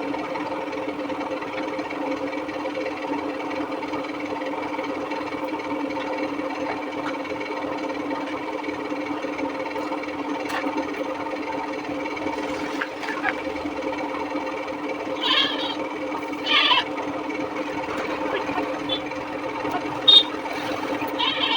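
A motor running with a steady, even hum, with a few short higher-pitched sounds breaking in near the end.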